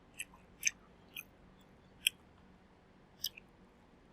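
Crisp crunches of someone chewing fried chicken close to the microphone, about five sharp short crunches at uneven intervals.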